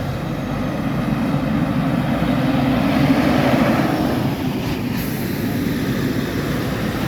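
A motor vehicle's engine running as it passes, growing louder to a peak about three seconds in and then fading.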